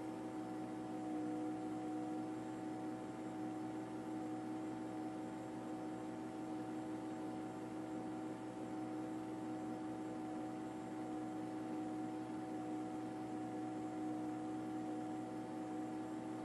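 Steady mechanical hum with several constant tones over an even hiss, unchanging throughout.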